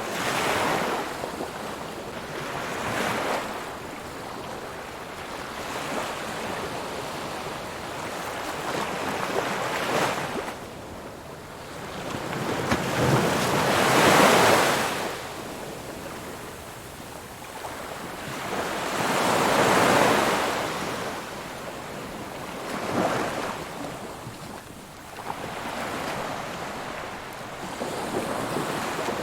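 Ocean waves breaking and washing on a shore, swelling and fading in surges every few seconds, the loudest breakers about halfway through and again about two-thirds of the way in.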